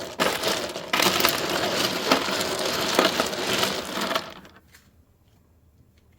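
Refrigerator ice dispenser dropping ice with a loud clattering crunch, full of sharp clicks, that stops about four seconds in and fades out.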